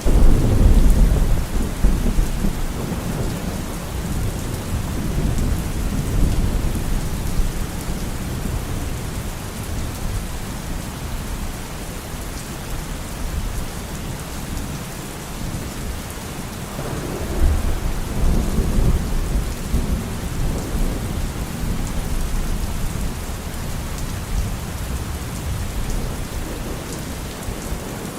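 Steady heavy rain with rolling thunder. A loud rumble of thunder begins at the start and dies away over several seconds, and a second roll comes about 17 seconds in.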